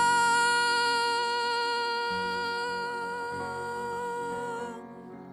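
A singer holds one long, high 'oh' note in a worship song over soft backing chords; the note fades out near the end.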